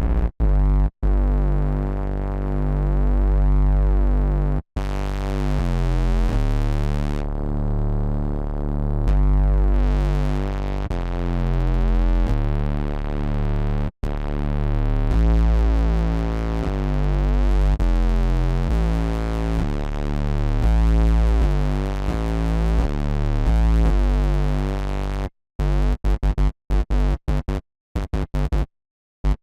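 Electro house synth bass line playing sustained notes that change pitch every second or so; from about 25 s in it turns into a rapid stuttering, chopped pattern that cuts in and out.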